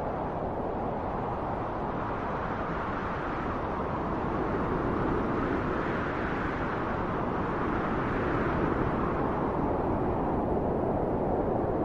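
Wind blowing steadily, a low rushing noise that swells in a slow gust about halfway through, eases, then builds again near the end.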